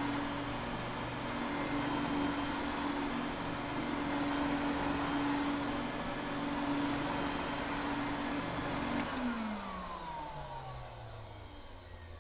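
Vacuum cleaner running with a steady motor hum and rushing air. About nine seconds in it is switched off, and the motor winds down with its pitch falling as it slows.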